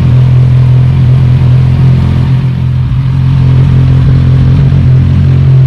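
Kawasaki Z1000R inline-four engine idling steadily with both stock mufflers removed, giving a loud, unmuffled exhaust note.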